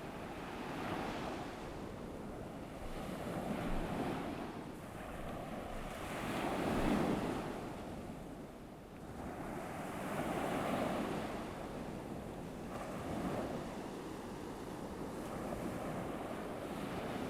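Ocean waves washing on a shore, an even hiss of surf that swells and falls back every three to four seconds, the loudest swell about seven seconds in.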